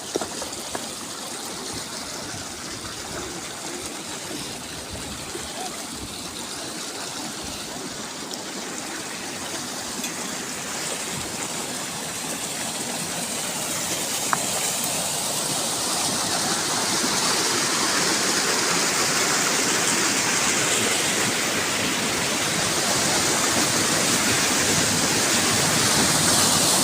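Water rushing along a restored irrigation channel, a steady gushing that grows louder through the second half.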